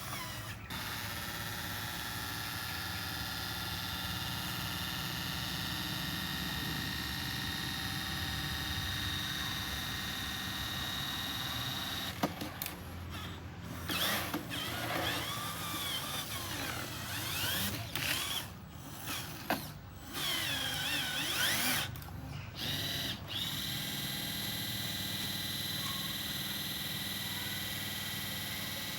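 Small electric motors and gearboxes of radio-controlled construction models whining steadily. About twelve seconds in, the whine stops and starts several times with rising and falling pitch, then settles back to a steady whine.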